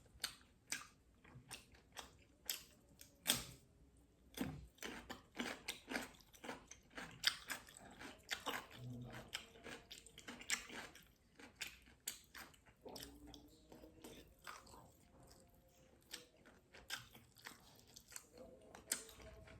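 A person chewing food with the mouth close to the microphone: a steady run of irregular wet smacks and small crunches. The food is fish in green chili sauce.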